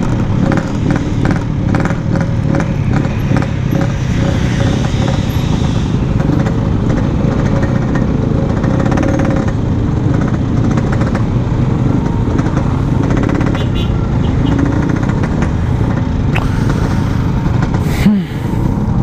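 Yamaha RX-King's 135 cc single-cylinder two-stroke engine running under way on the road, its revs rising and falling with the throttle. A brief sharp knock or thump near the end.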